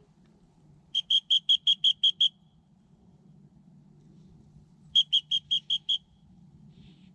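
Two rapid runs of short, high-pitched beeps of one steady pitch, about six a second: eight in the first run, then six more about four seconds later.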